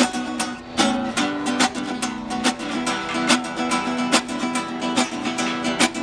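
Acoustic guitar music, strummed in a quick, even rhythm.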